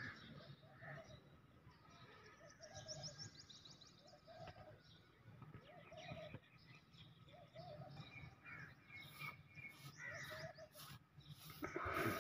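Faint outdoor birds calling: a short call repeated about every second and a half, a quick high trill about three seconds in, and scattered chirps. A louder rustle comes near the end.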